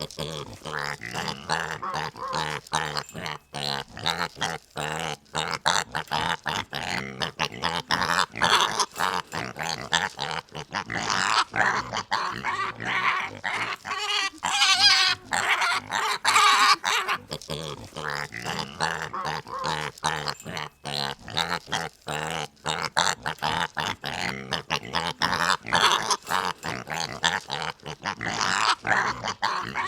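Pigs grunting, many short grunts in quick succession, with higher, louder calls around the middle.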